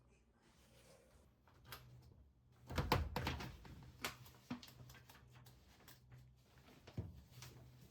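Faint household handling noises: scattered clicks and knocks, with the loudest cluster about three seconds in and another thump near seven seconds, like a door or lid being moved, over a low steady hum.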